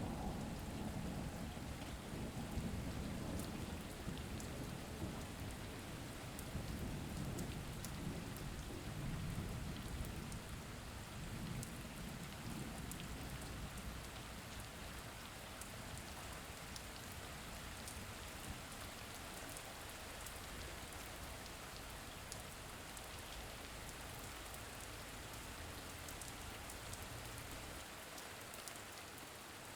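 Steady rain falling, with fine drop ticks in the hiss. A low rumble of thunder dies away over the first ten seconds or so.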